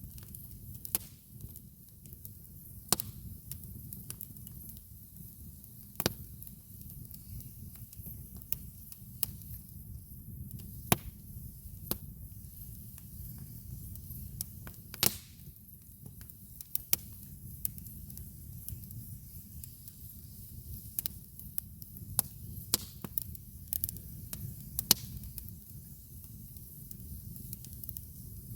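Campfire burning: wood crackling with irregular sharp pops, the loudest about three, six, eleven, fifteen and twenty-five seconds in, over a steady low rush of flame.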